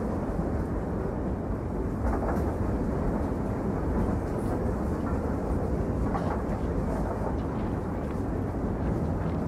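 Steady rumble of a train running along the track, with a few faint knocks.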